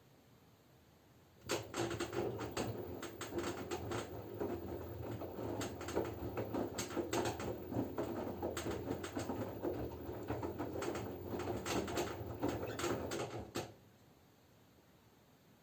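LG F10B9LD front-loading washing machine in its wash phase: the drum starts turning about a second and a half in and tumbles wet laundry, with water sloshing and slapping, for about twelve seconds, then stops suddenly for the pause between turns.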